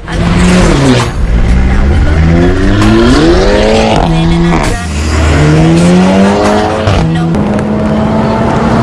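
Car engine running through an aftermarket performance exhaust, its note climbing under acceleration and dropping suddenly about four and seven seconds in, as at upshifts, then holding a steady note near the end.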